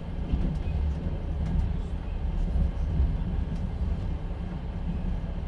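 Passenger train running, heard from inside an open-plan platzkart sleeper carriage: a steady low rumble of wheels on the rails, with faint scattered clicks and rattles.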